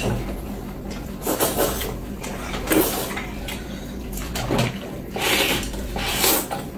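Sounds of a family meal: about five short, noisy bursts of eating and of bowls and utensils being handled.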